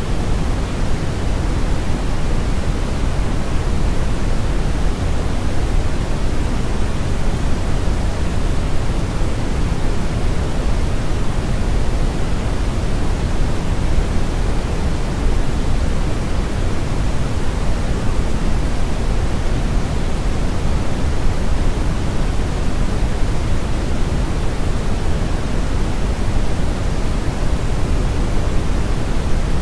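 Steady synthetic brown noise: a constant, even rumble with the highs rolled off, heavy in the bass and unchanging throughout.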